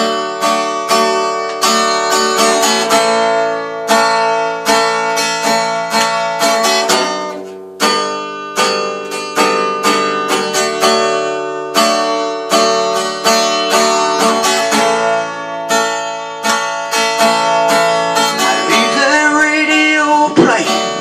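Acoustic guitar strummed with a pick, a solo instrumental break of steady chords between sung lines of a country song.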